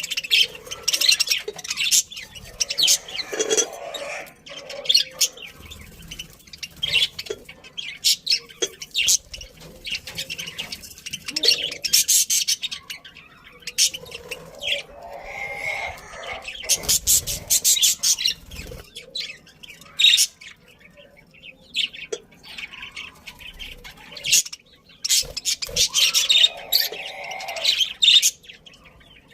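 A group of budgerigars chirping and chattering, with fast high chirps coming in busy bursts every few seconds and quieter stretches between.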